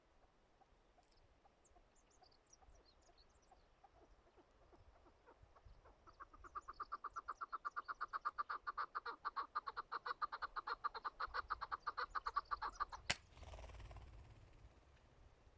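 Chukar partridge calling: a fast run of clucking 'chuck' notes, about nine a second, growing louder over several seconds. About thirteen seconds in, a single gunshot with a low rumbling tail cuts the calls off.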